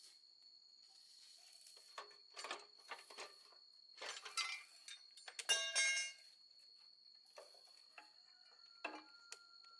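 Scattered metallic clinks and knocks of hand tools and parts being handled, loudest in a short ringing clatter just past halfway, over a steady faint high-pitched whine.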